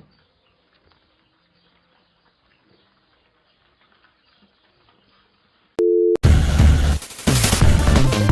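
Near silence for about six seconds, then a short steady electronic beep, followed by loud music starting.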